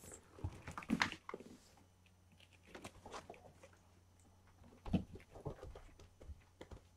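Kittens moving about: scattered light taps, thumps and scratching, with the loudest knocks about one second in and near five seconds in.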